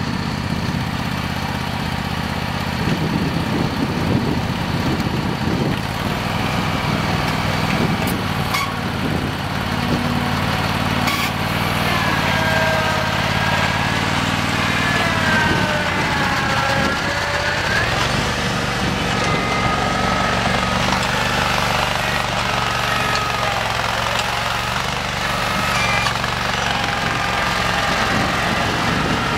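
Simplicity Legacy garden tractor running steadily under work, with a whine that rises and falls in pitch through the middle as the tractor changes speed.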